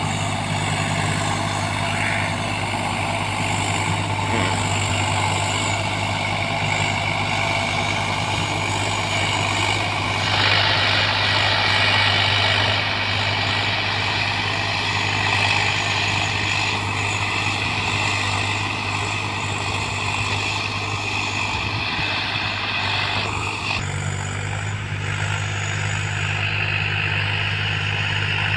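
Swaraj 744 XT tractor's three-cylinder diesel engine running steadily with a low hum while driving a rotavator. A harsher, brighter layer joins from about ten seconds in and drops away after about twenty-three seconds.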